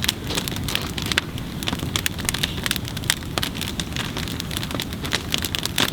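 Large bonfire burning, the wood crackling with many sharp, irregular pops over a steady low rush of flame.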